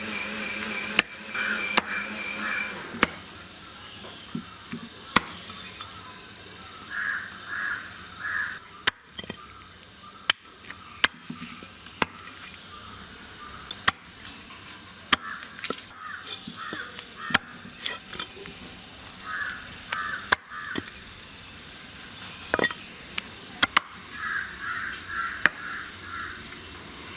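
Crows cawing in short runs of three to five caws, several times over, with scattered sharp clicks and knocks.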